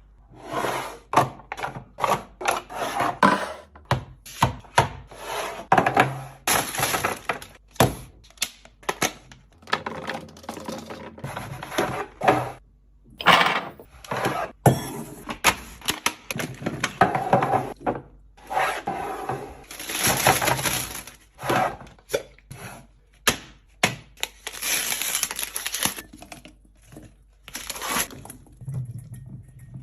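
Rapid clattering, clicking and clinking of packaged items and containers being handled and set down during a restock, with bursts of rustling packaging in between.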